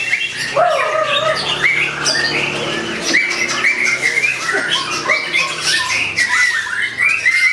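White-rumped shama singing: a fast, continuous string of short repeated whistled notes, mixed with harsh, clicking chatter.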